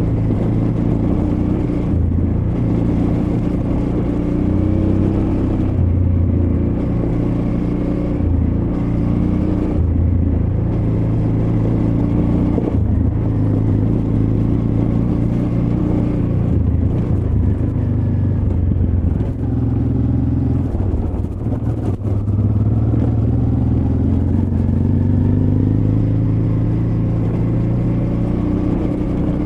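Honda Transalp XL600V's 583 cc V-twin engine running at low revs off-road, its pitch rising and falling with the throttle, easing off briefly about twenty seconds in.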